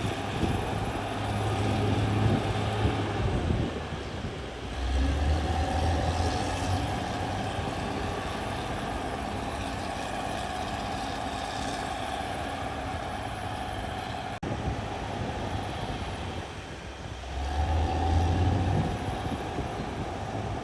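CAT D6R XL bulldozer's diesel engine running steadily while the machine works. It swells under heavier load three times: about two seconds in, around five to six seconds, and again near the end.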